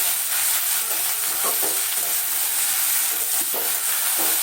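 Chopped vegetables (yardlong beans, potato and green banana) sizzling in a little hot oil in a kadai, with a spatula scraping and stirring them a few times.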